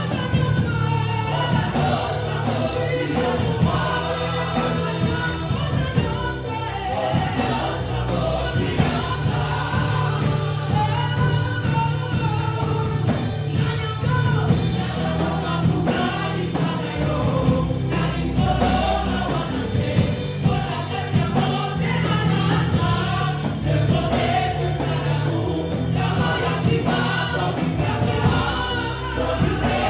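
Gospel worship music: a group of voices singing together over a steady band accompaniment with bass and a beat.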